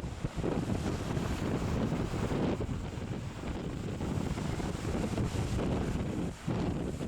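Wind buffeting the microphone in gusts, over the wash of ocean surf, with a brief lull near the end.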